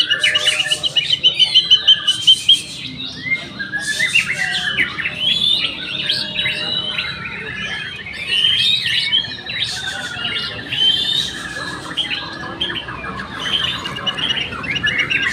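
White-rumped shamas (murai batu) and other songbirds singing over one another in a dense mix of whistles, chirps and trills, with a fast, even trill in the first two seconds or so.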